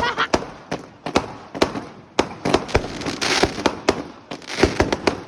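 Fireworks going off: a quick, irregular string of about a dozen sharp bangs, with a burst of crackling hiss about three seconds in.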